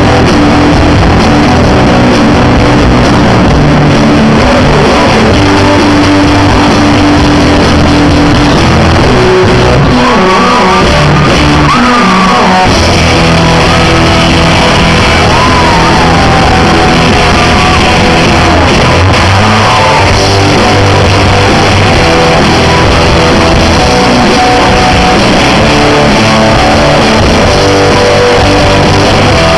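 Rock band playing live, loud, with guitars and a singing voice that comes in about ten seconds in.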